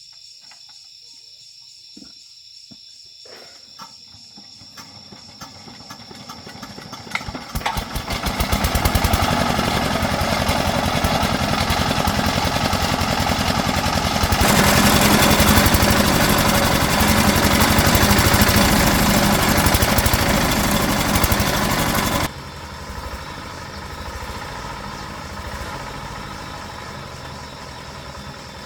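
Repaired tractor engine starting: a few faint clicks, then it catches about seven seconds in and runs loudly, speeds up further around halfway, and drops abruptly to a lower, steadier running speed near the end.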